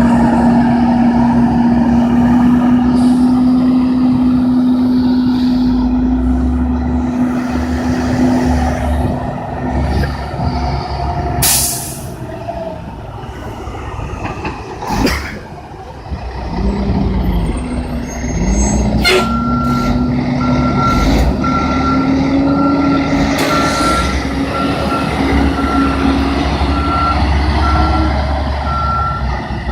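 Dump truck diesel engines running, their note sinking away in the middle and climbing again as the trucks manoeuvre, with two sharp air-brake hisses. From about two-thirds of the way in, a reversing alarm beeps at an even pace.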